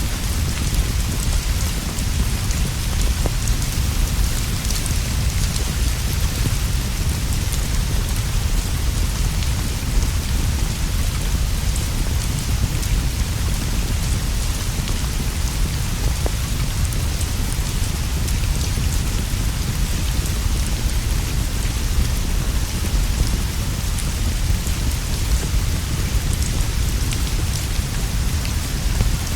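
Steady rainfall with a constant deep rumble underneath and a few scattered small pops or ticks.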